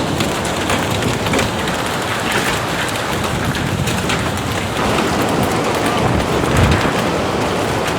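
Heavy rain pouring steadily: a dense hiss with many small pattering ticks. A low rumble swells briefly near the end.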